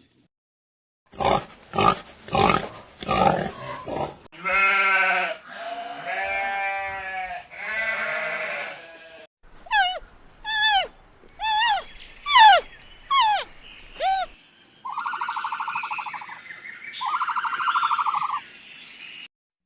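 A run of different animal calls in turn: about five short grunting pulses, then three long bleats, then about seven short calls that each fall in pitch, and two steady calls near the end.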